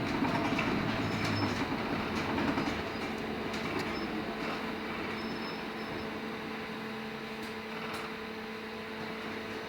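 Cabin noise inside a LiAZ-6274 electric bus: a steady electric hum with a low steady tone, under an even rumble and scattered small clicks and rattles.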